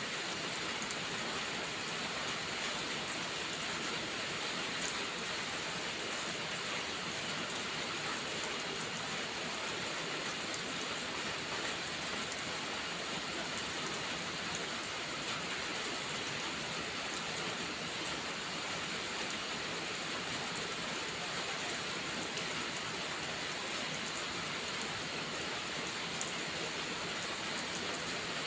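Steady rain falling without let-up, with faint scattered ticks of individual drops over the even hiss.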